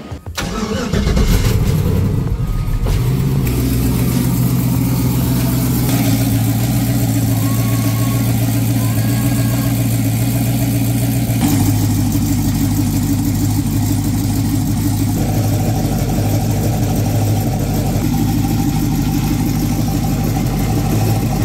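Turbocharged LS V8 drag car engine starting about half a second in and then idling steadily. Its idle note steps down about halfway through. The engine is being run for a head gasket block test.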